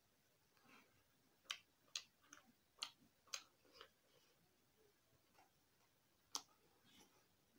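Quiet eating sounds: a person chewing, giving scattered sharp mouth clicks and smacks, about six in quick succession in the first few seconds and two more near the end.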